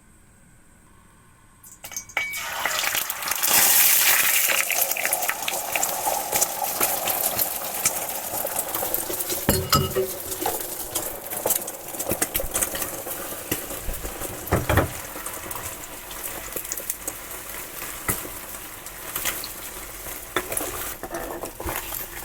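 Food sizzling in hot oil in a pan, starting suddenly about two seconds in, while a utensil stirs it and clinks and scrapes against the pan.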